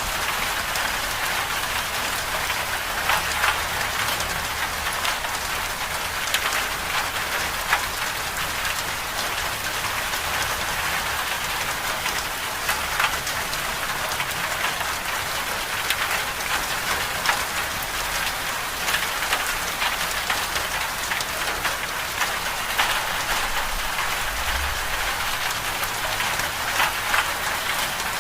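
Steady medium rain falling on a surface, a constant hiss with many individual drops ticking through it.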